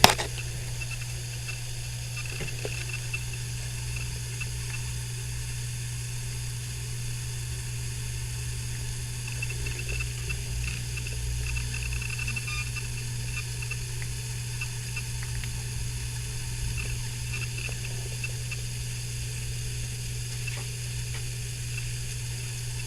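A steady low hum with faint, scattered high ticks over it and one sharp click at the start.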